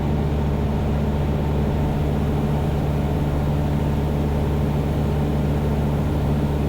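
Cessna 172's piston engine and propeller droning steadily in cruise flight.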